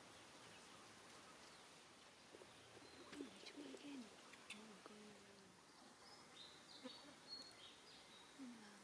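Near silence, with faint bird calls: a few short, low, falling coos and some high chirps, and a couple of faint clicks.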